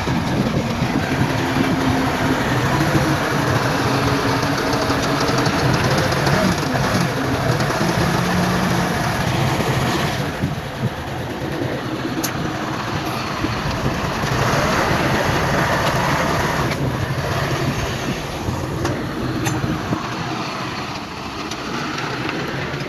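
Bulldozer at work pushing stone: its diesel engine running under load, with the clanking of steel tracks and rock grinding, and the engine pitch shifting now and then.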